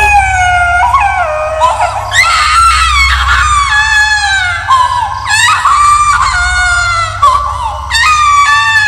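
Horror sound effect of a baby screaming and wailing, several high-pitched cries overlapping and falling in pitch. A steady low drone runs under them.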